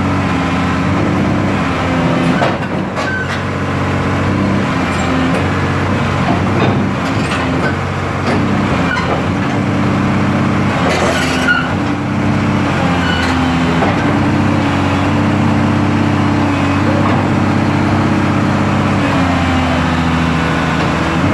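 Heavy diesel engine running, its pitch stepping up and down several times as the machine works. There is a short hiss about eleven seconds in and a few knocks.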